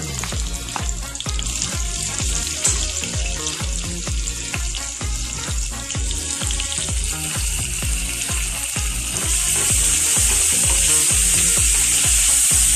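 Chopped red onions and whole spices sizzling as they fry in hot oil in a pot and are stirred with a spoon; the sizzle grows louder about nine seconds in. Background music with a steady beat plays throughout.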